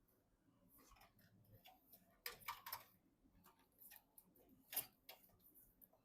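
Faint clicks and taps of computer parts being handled and fitted together, with a quick run of clicks about two and a half seconds in and a single sharper click near five seconds.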